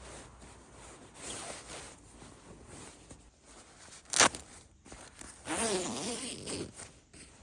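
A zipper being pulled along for about a second near the end, after a single sharp click about four seconds in, with light rustling before.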